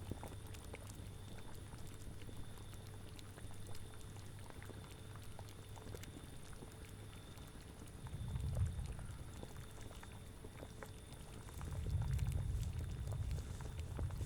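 Cauldron boiling with a steady scatter of small bubbling pops over a low, even rumble. The rumble swells up twice, briefly about eight seconds in and again for a couple of seconds from about twelve seconds in.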